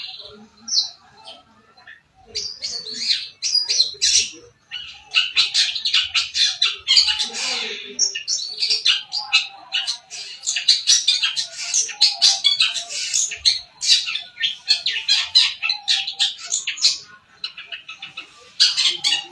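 Long-tailed shrike (cendet) singing a fast, dense run of short harsh chattering notes and chirps, sparse for the first couple of seconds and then almost continuous.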